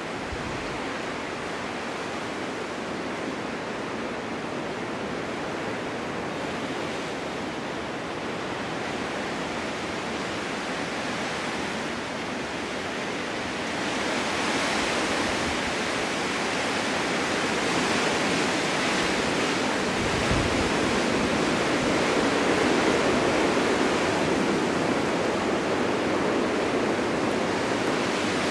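Winter storm wind blowing in a steady rush with no gusting breaks, swelling louder and hissier about halfway through.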